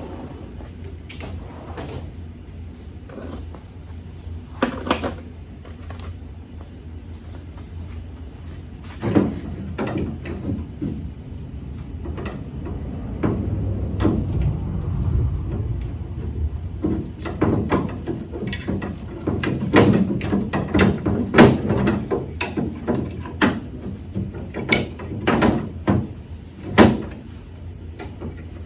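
Hand tools and metal parts being handled while hardware is worked off a pickup bed: irregular clicks, clanks and knocks, sparse at first and busier from about nine seconds in, over a steady low hum.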